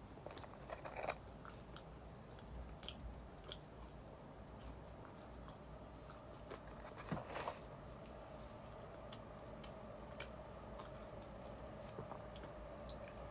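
A person biting and chewing fast food close to the microphone, with crisp crunches, loudest about a second in and again around seven seconds. A faint steady hum comes in about halfway.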